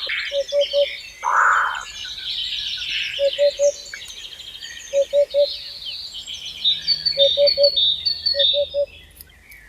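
Several birds singing at once, with overlapping high chirps and trills. Through them a low call of three or four quick notes repeats every second or two, and there is a brief hiss about a second and a half in.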